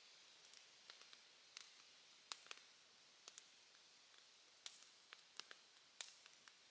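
Bonfire crackling: irregular sharp pops and snaps, about a dozen, the loudest around the middle and near the end, over a faint steady high-pitched insect chorus.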